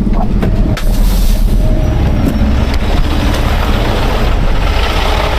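Heavy tow truck on the move: a steady low engine and road rumble, with a few sharp rattling clicks in the first second.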